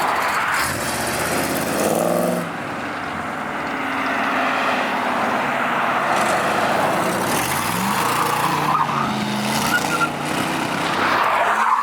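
A car engine revving, its pitch climbing about a second in and again near eight seconds, over a steady rushing hiss.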